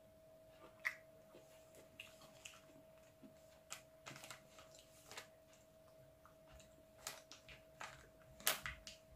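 Quiet mouth sounds of someone eating mango: scattered soft clicks and smacks of chewing, with a louder cluster near the end. A faint steady hum runs underneath.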